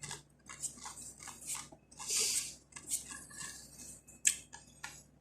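Cutlery clinking and scraping on a plate while eating: a string of short, light clicks, with one brief hiss about two seconds in.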